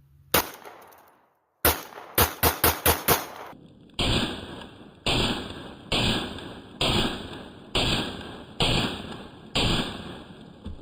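Canik pistol firing: one shot, then a quick string of about six shots around two seconds in, followed by seven more reports spaced about a second apart that sound thinner.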